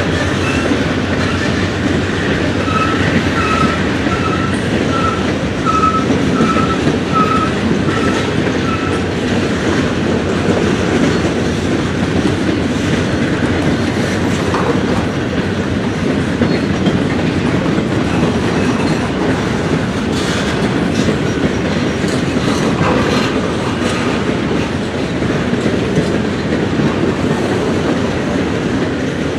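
Freight train cars rolling past, wheels clicking over the rail joints in a steady, loud rumble. From about three seconds in, a run of short high tones repeats for roughly six seconds.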